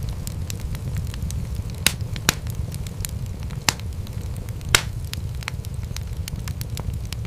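Wood fire crackling: frequent small pops and snaps over a steady low rumble, with a few louder pops near the middle.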